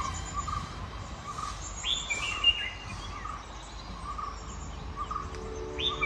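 Birds calling: one repeats a short note about every half second, while another gives a higher, quick chirping call about two seconds in and again near the end.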